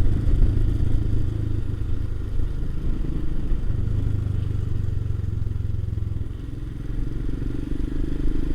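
Motorcycle engine running on the move, with a low steady drone; it eases off briefly about six seconds in, then picks up again.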